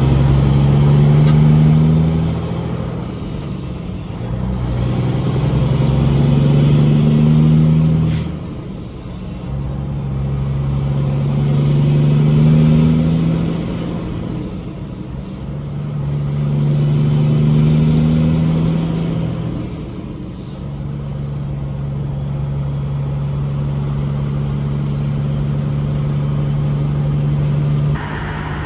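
Semi-truck's diesel engine pulling a loaded trailer away and working up through the gears: the engine pitch climbs, drops at each of four upshifts, then holds steady at cruising speed for the last several seconds.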